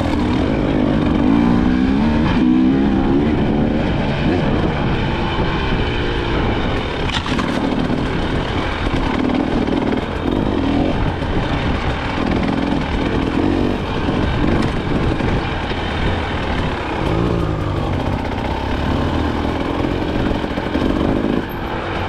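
Two-stroke single-cylinder engine of a KTM 300 XC-W dirt bike being ridden, revving up and falling back again and again as the throttle opens and closes.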